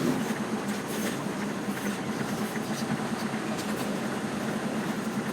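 Articulated lorry running, heard from inside the cab as a steady low drone with road noise and a few light rattles.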